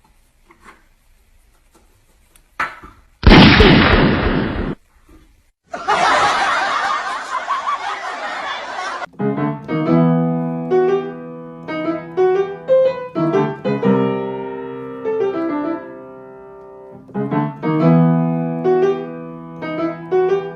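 Two harsh, noisy bursts in the first half: a short loud one about three seconds in and a longer one from about six to nine seconds. Then a simple melody on an electronic keyboard or piano with sustained notes.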